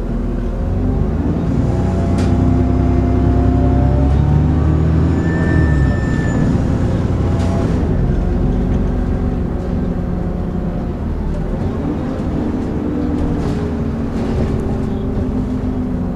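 Dennis Trident 2 double-decker bus driving, its engine and driveline running with the whirring, vacuum-cleaner-like 'hoovering' whine, the note rising and falling as the bus pulls and eases off. The low engine note drops away about six seconds in.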